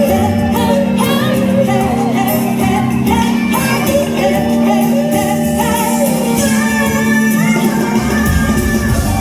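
A female singer sings a pop ballad live over band accompaniment, holding long wavering notes. The bass and drums come in heavier near the end.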